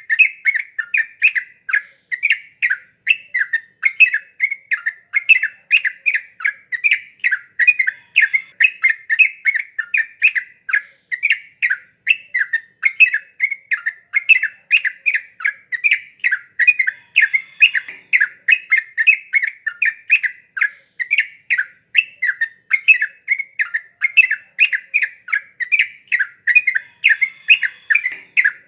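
Yellow-vented bulbul (trucukan) calling in a fast, unbroken series of short notes, about three a second.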